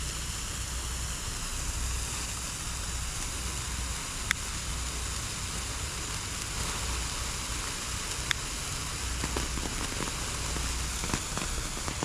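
A bundle of sparklers burning together with a steady fizzing hiss. Two sharp pops come about four seconds apart, and the crackling grows busier near the end.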